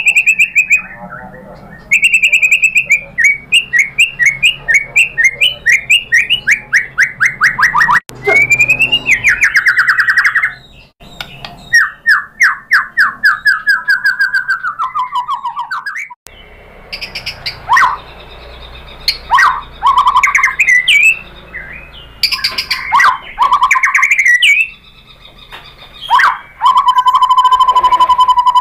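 White-rumped shama singing loudly: rapid runs of repeated notes and sweeping, varied phrases, broken by short pauses, ending in a long steady whistle.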